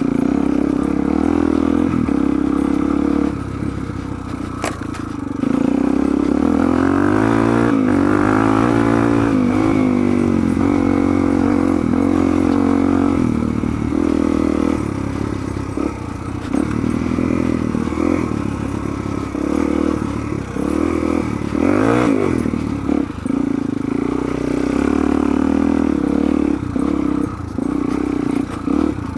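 Suzuki DR-Z400 dual-sport motorcycle's single-cylinder four-stroke engine running under way. The revs rise and fall repeatedly, with short drops in between.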